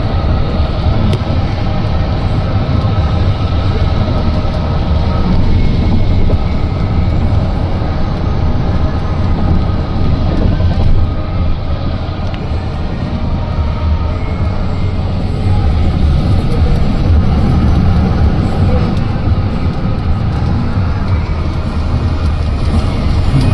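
Loud, steady low rumble of a car driving, heard from inside the cabin, with no sudden events.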